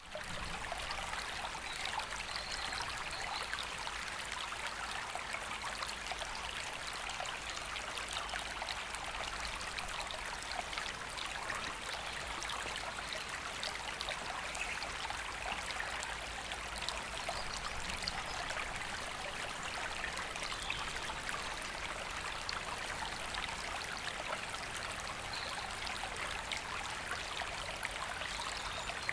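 River water flowing and babbling over stones: a steady, unbroken rush of moving water.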